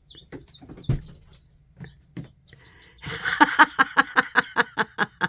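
Recorded birdsong played through a speaker: short high, falling chirps, then about three seconds in a louder, fast run of repeated notes, about five a second.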